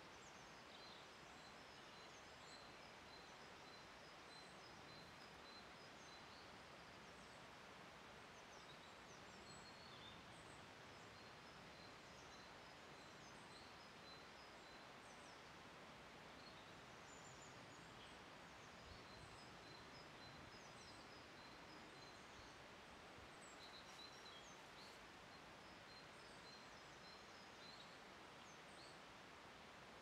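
Faint woodland ambience: a low steady hiss with small birds chirping in short high notes, some in quick strings of repeated notes.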